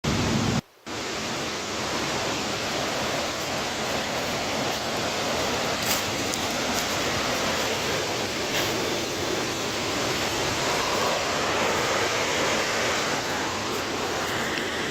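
Waterfall: a steady, unbroken rush of falling water, with a brief dropout near the start.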